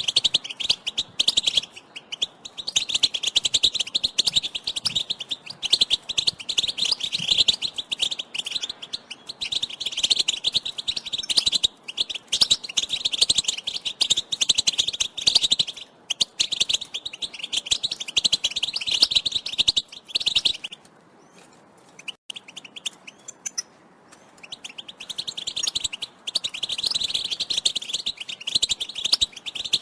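European goldfinch calling in a fast run of chirps and twitters. It breaks off for a few seconds about two-thirds through, then starts again.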